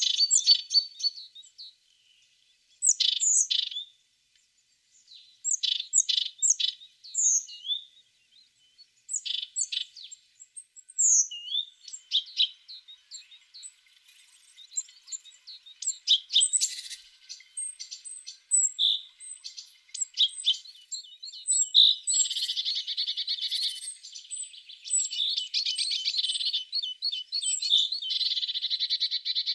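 Tit (titmouse) singing: short bursts of high, sharp notes separated by pauses, coming more often as it goes on, then in the last third a fast continuous trill.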